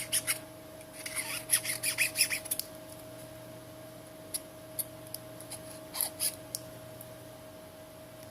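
Quick scraping and rubbing strokes on the back of a Samsung Galaxy S7 as its messy back side is cleaned: a fast run of strokes that stops about two and a half seconds in, then a few separate short scrapes and clicks.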